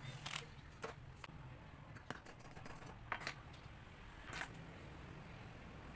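Scattered light clicks and snips of small hand tools and wire being handled while wiring an electric water pump motor, about eight sharp ticks spread irregularly, some in quick pairs, over a low steady hum.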